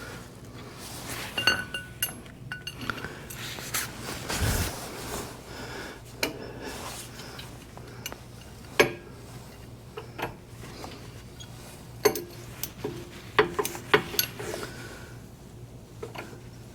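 Metal hand tools clinking and knocking as a wrench and socket are worked on a very tight screw on a compact tractor's transmission, with one heavier thump about four and a half seconds in.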